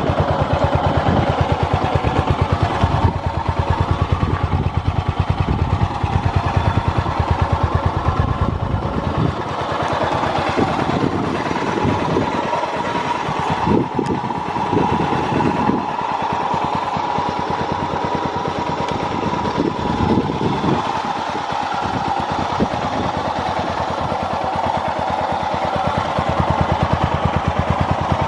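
Yamaha SRX600's air-cooled single-cylinder four-stroke engine running with a steady pulsing beat, which changes for a stretch in the middle. The seller describes it as revving up cleanly with no abnormal noises.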